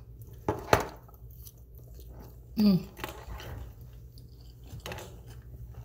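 A person chewing a mouthful of pizza fries, with soft wet mouth sounds and small clicks. A sharp click comes a little under a second in, and a short hummed sound is heard near the middle.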